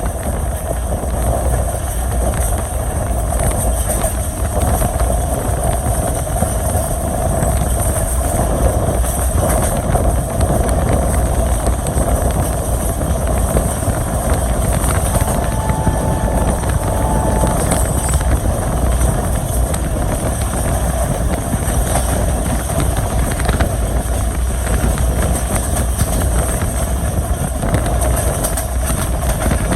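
Diesel-hauled passenger train running on the line: a steady rumble of wheels on track and rolling stock. A short, steady high tone sounds for a couple of seconds about halfway through.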